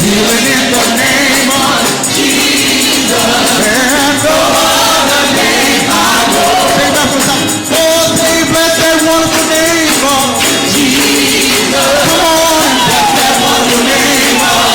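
Gospel praise singing with long held notes, over instrumental accompaniment with a tambourine shaking throughout.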